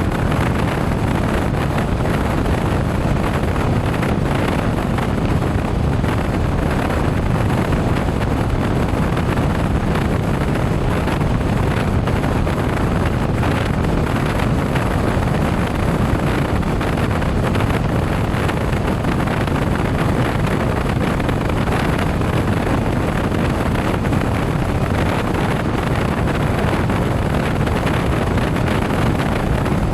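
Steady rush of wind on the microphone with motorcycle and road noise underneath while riding, unchanging throughout.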